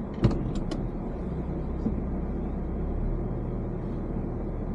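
Car running, a steady low rumble of engine and road noise, with a few sharp clicks in the first second.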